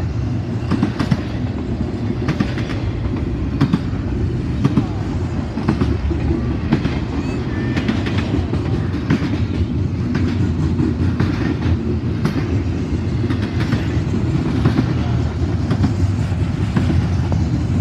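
CSX double-stack intermodal freight train rolling past: a loud, steady low rumble of the cars with frequent short clacks from the wheels on the rails.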